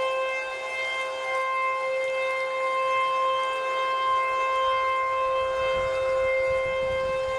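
Outdoor civil-defense warning siren sounding a tornado warning, holding one steady pitch that swells and fades slightly in loudness.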